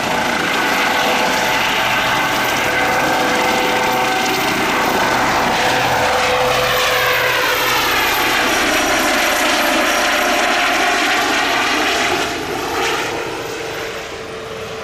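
Airbus H135 helicopter's turbines and rotors running loud and steady as it takes off and passes by. The sound sweeps and phases in pitch as it goes over, then fades over the last few seconds.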